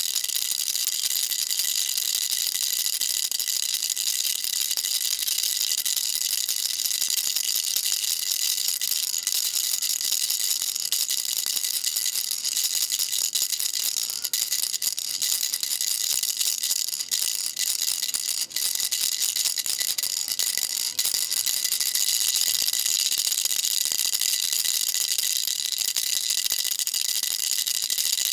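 Baby rattle shaken continuously: a dense, steady, high-pitched rattling that dips briefly a couple of times a little past halfway.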